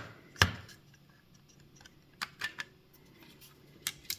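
A few small, sharp clicks and taps from handling the opened Nintendo Switch and its small parts: one louder click about half a second in, a quick cluster of three a couple of seconds later, and two more near the end.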